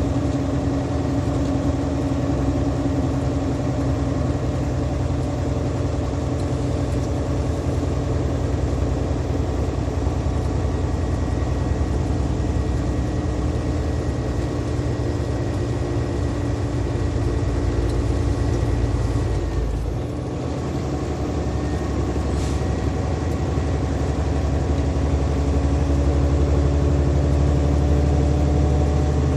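Big-rig diesel engine pulling hard up a steep grade under a heavy load. It holds a steady, loud note, dips briefly about two-thirds of the way through, then climbs slowly in pitch.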